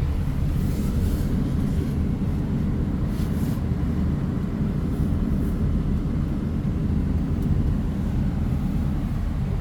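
Tractor engine running steadily as it drives along a gravel road, a constant low drone. A couple of short hisses come through in the first few seconds.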